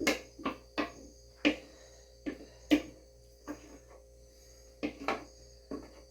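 A spoon knocking against a pot while stirring thickening canjica, about a dozen short, irregular knocks.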